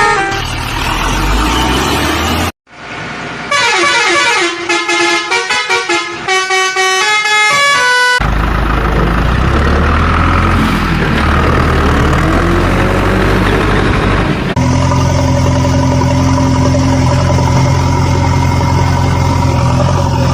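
Vehicle sound effects laid over the picture: a quick run of short pitched horn toots, then engine noise, then a long steady horn-like tone from about two-thirds of the way in.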